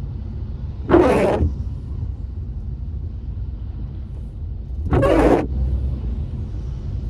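Steady low road rumble inside a moving car on a wet road, with two short swishes about four seconds apart, one about a second in and one about five seconds in: the windscreen wipers sweeping the glass.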